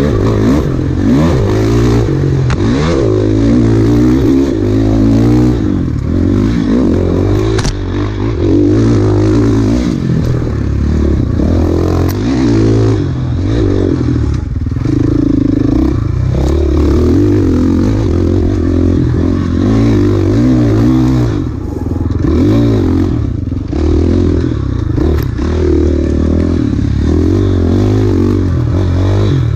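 Enduro dirt bike engine being ridden hard off-road, its pitch rising and falling again and again as the rider works the throttle, with a few sharp knocks from the bike and terrain along the way.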